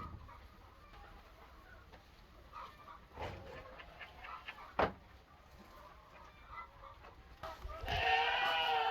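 Chickens clucking faintly, with a sharp knock about five seconds in and a louder, drawn-out pitched call starting near the end.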